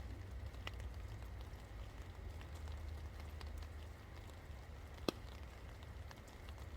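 Steady rain falling, with scattered drops ticking and one sharper, louder drop strike about five seconds in, over a low rumble.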